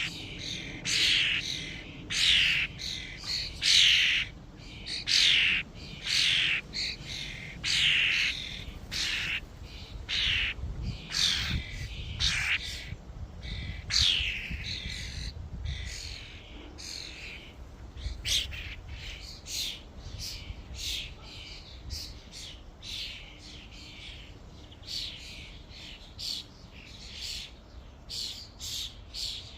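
A flock of common starlings calling at a feeder: many short, harsh squawks, several a second and often sliding downward in pitch. The calls are densest and loudest in the first half and thin out and grow fainter later.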